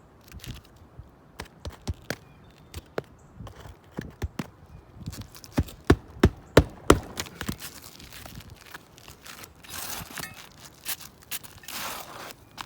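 A hammer driving roofing nails into asphalt shingles: scattered knocks, then a run of about five hard strikes a third of a second apart about halfway through. Scraping and rustling follow near the end, as the shingles and feet shift on the roof.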